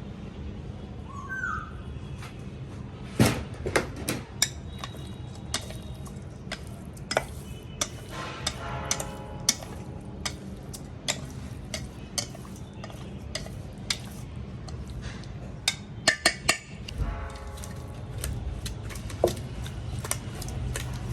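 Kitchen utensils clinking and knocking against bowls and dishes in irregular sharp strikes, a few ringing briefly, over a steady low rumble.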